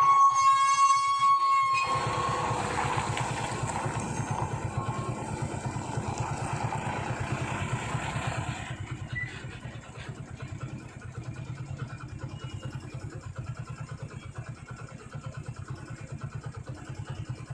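A heavy truck's diesel engine running with a low, even pulsing while climbing through the bend, a vehicle horn sounding for about two seconds at the start. The engine is louder for the first eight or nine seconds, then drops back.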